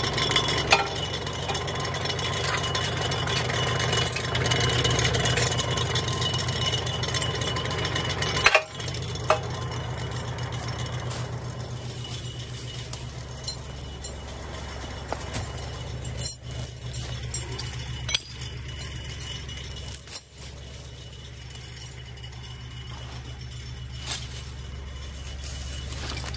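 Tractor engine running steadily, with metallic clinks and rattles over it.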